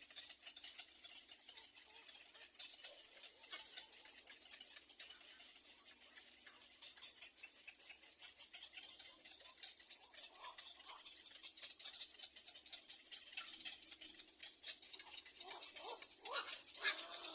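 Little egret nestlings calling in a fast, dry clicking chatter, louder near the end.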